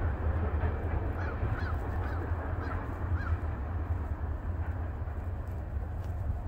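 Low, steady rumble of a freight train receding into the distance, with geese honking five times in quick succession between about one and three and a half seconds in.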